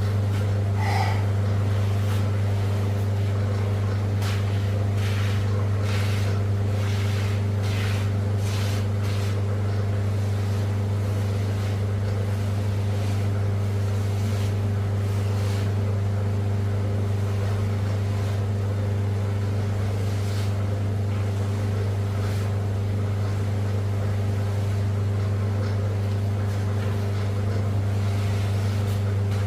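Steady low machine hum at a constant pitch, like a motor running. A few seconds in, a scatter of short clicks or knocks sounds over it for several seconds.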